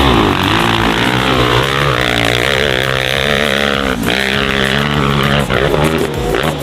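Dirtbike engine revving hard on a steep hill climb, its pitch rising and falling as the throttle is worked, with a sharp knock about four seconds in.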